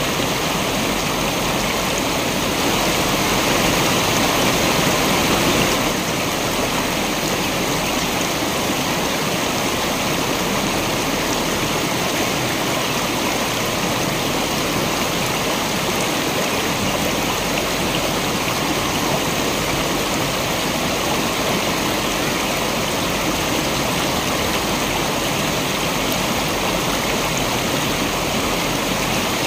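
Waterfall water rushing steadily, a dense even noise with no pauses. It swells a little louder for a few seconds about three to six seconds in.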